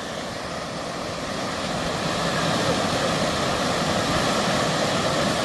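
Steady rushing of flowing river water, growing a little louder over the first couple of seconds and then holding.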